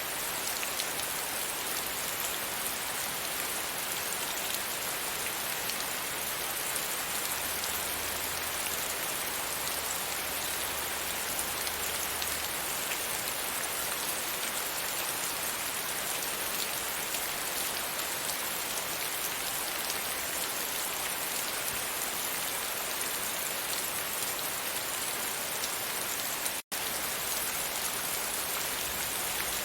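Steady rain pattering against a window pane, a dense even hiss of drops. It cuts out for an instant near the end, then carries on.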